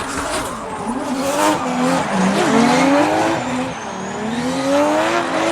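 Toyota Supra MK4's 2JZ straight-six revving up and down through a drift, over tyre squeal, with the engine pitch climbing again near the end.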